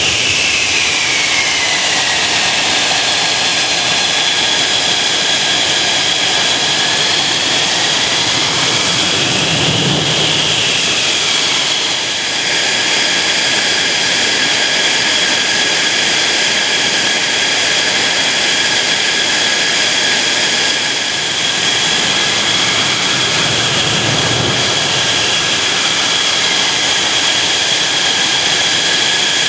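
Mitsubishi F-2 fighter jet engines (General Electric F110 turbofans) running loud and steady: a dense rushing roar with a high, even whine. A few slow rises and falls in the tone come and go.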